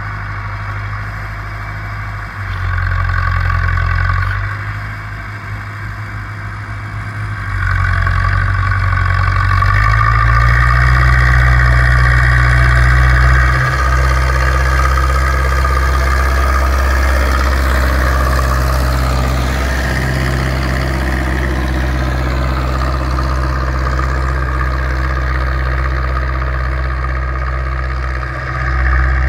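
Zetor 6245 four-cylinder diesel tractor engine working under load while pulling a three-furrow reversible plough. The engine note rises and falls in the first several seconds, then settles into a steady, heavier pull from about ten seconds in, with a brief dip near the end.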